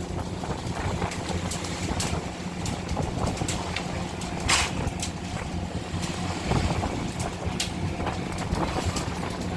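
Fishing vessel's engine running with a steady low drone, over wind and sea noise, with a few sharp knocks on board.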